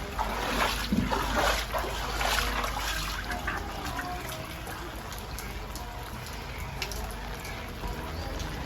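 Rainwater trickling and splashing, a steady noise of running water.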